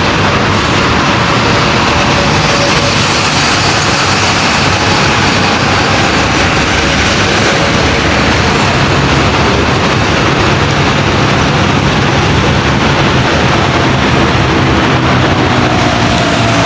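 Heavy trucks on the road: a loud, steady rush of engine and tyre noise, with a low engine drone that grows clearer in the second half.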